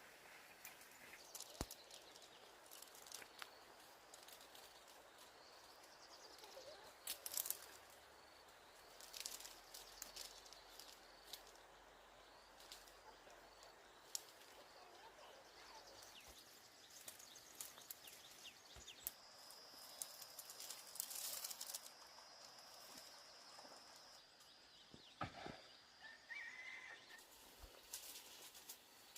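Faint rural outdoor ambience, near silence, broken by scattered light clicks and taps. About two-thirds of the way in, a thin steady high-pitched tone holds for several seconds.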